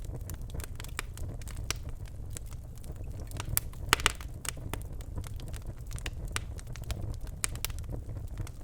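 Birch-wood fire crackling in a fireplace: irregular sharp pops and snaps over a low steady rumble of the flames, with a few louder pops about four seconds in.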